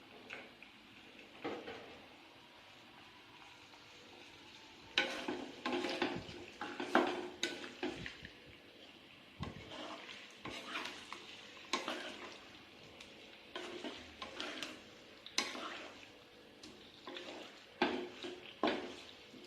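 Food sizzling in a frying pan while a spatula stirs and scrapes it, with irregular clacks of the utensil against the pan over a steady sizzle.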